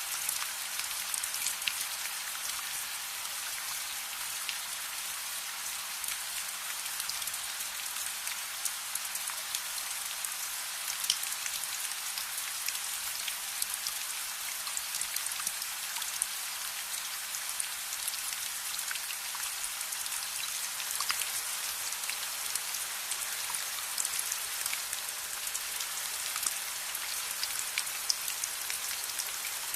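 Steady rain, an even patter with many small sharp ticks scattered through it.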